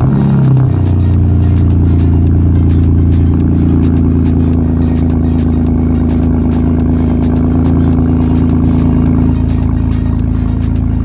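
BMW E60's N52 inline-six cold-starting through its exhaust fitted with clamp-on tips: it catches at once, flares, and drops within about a second to a steady high cold idle.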